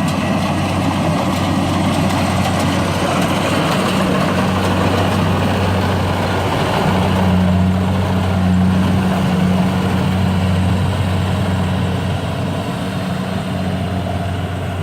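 Heavy farm machine's engine running steadily with a low, even drone, a little louder midway through.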